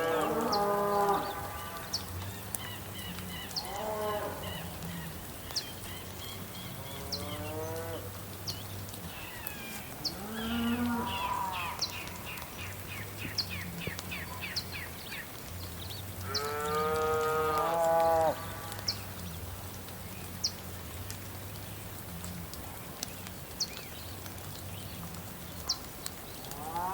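Cattle mooing, several separate calls with the longest and loudest about 16 to 18 seconds in. Between them are quick high chirping trills and a faint high tick repeating every second or two.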